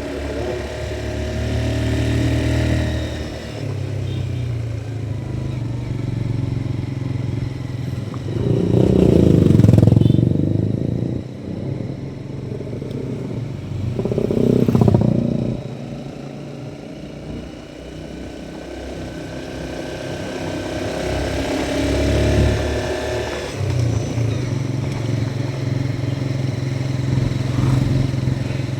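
Motorcycle engine running while riding, its pitch stepping up and down with the throttle and gears. Two louder swells of noise come about a third and halfway through.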